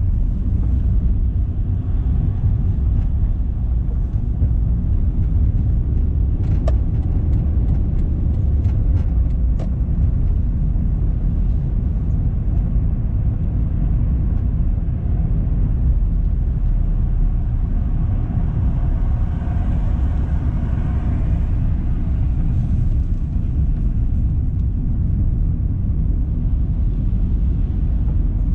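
Steady low road and engine rumble of a car being driven, with a short run of light clicks about seven seconds in.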